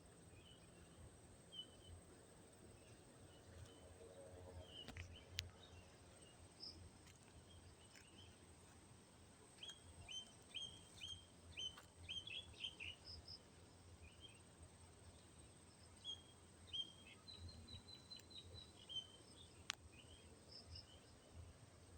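Faint, short, high chirps of small birds, repeated in quick runs and busiest about halfway through, over a quiet outdoor background. Two sharp clicks stand out, one about five seconds in and one near the end.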